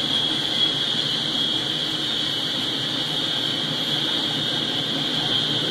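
Double-stack container freight train rolling past: a steady rumble of well cars over the rails, with a steady high-pitched hiss over it.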